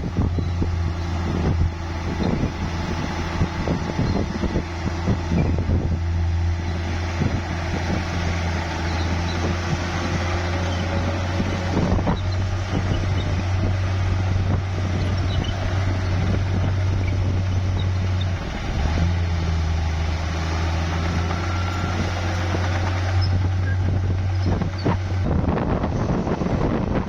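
Bulldozer's diesel engine running with a steady low drone, briefly dipping about two-thirds of the way through. Wind buffets the microphone at times.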